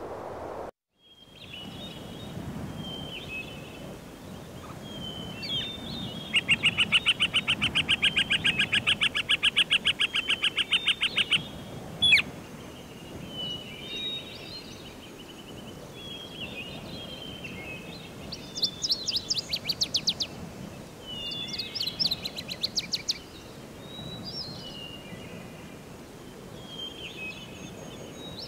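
Birdsong: scattered short chirps and several rapid trills, the longest lasting about five seconds, over a steady background hiss. The sound drops out briefly about a second in, and there is a single sharp click about twelve seconds in.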